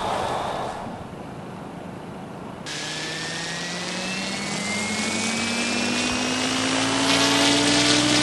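RC helicopter spooling up: a mechanical whine starts suddenly about a third of the way in and climbs steadily in pitch, growing louder as the rotor speeds up.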